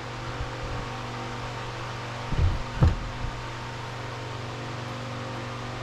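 Steady mechanical hum, like a running fan, with two dull thumps about two and a half and three seconds in.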